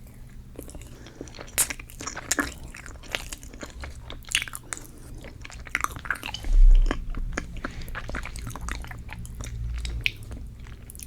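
Close-miked biting and chewing of a dense cheesecake, with many short wet mouth clicks and smacks. A low thump about two-thirds of the way through is the loudest sound.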